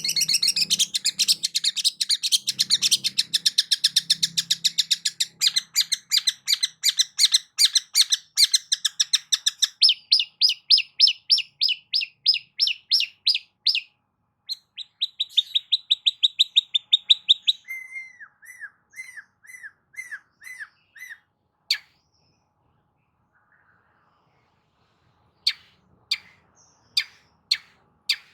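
Long-tailed shrike (cendet) singing a varied song: a dense fast chatter for about ten seconds, then runs of quick repeated sharp notes at a few per second, a short series of lower down-slurred notes, and a pause before more sharp single notes near the end.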